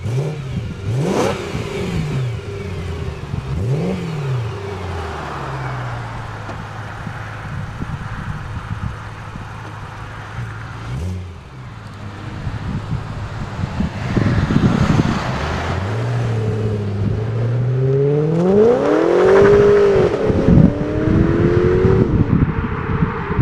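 2008 BMW M3's 4.0-litre V8 idling, blipped twice in the first few seconds, then pulling away hard: the revs climb steeply and drop back at a gear change near the end.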